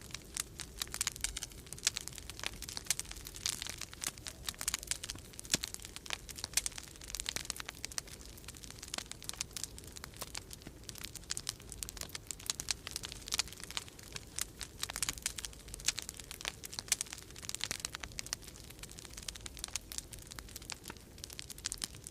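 Wood fire in a fireplace crackling steadily, with dense, irregular snaps and pops, over a low steady rumble of storm wind.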